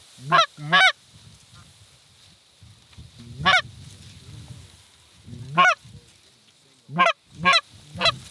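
Goose honks: seven short, loud calls, a quick pair near the start, single honks in the middle and a faster run of three near the end.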